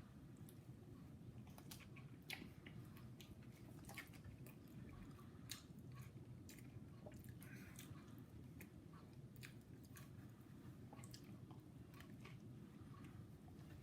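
A person chewing a mouthful of footlong sub sandwich: faint, irregular wet mouth clicks over a steady low room hum.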